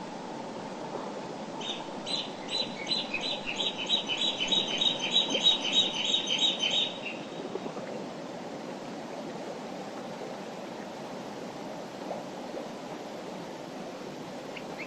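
Mountain river flowing with a steady rushing sound. From about two seconds in, a songbird sings a run of about four high repeated notes a second for some five seconds, then stops.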